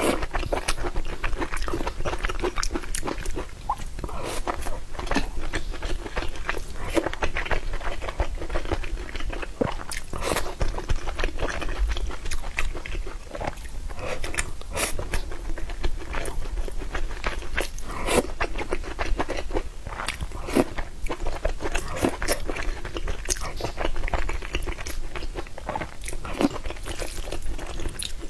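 A person eating: continual chewing and biting with crunches and wet mouth smacks.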